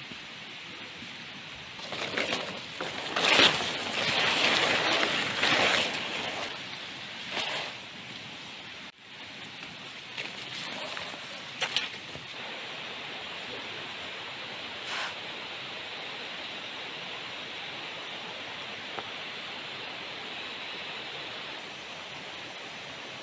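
Heavy rain falling steadily in the jungle, with several louder stretches of splashing in the first half.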